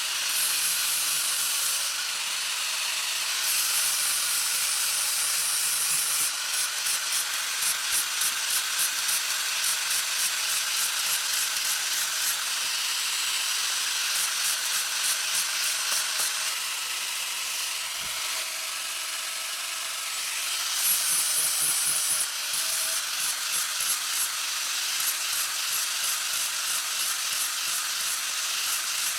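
A steady hiss, with rhythmic rasping strokes at about three or four a second through two long stretches.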